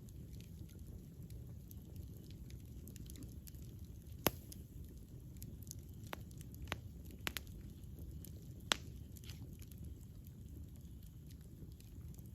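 Wood fire burning with a steady low rumble and scattered crackles, broken by a few sharper pops: one loud snap about four seconds in and others around seven and nine seconds.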